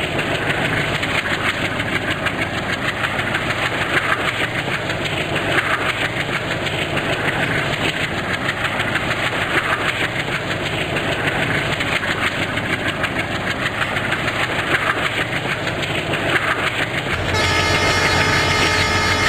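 Train running past at speed, its wheels clattering over the rails with a dense, steady rush. About seventeen seconds in, the sound changes abruptly to a steadier low hum with several high steady tones.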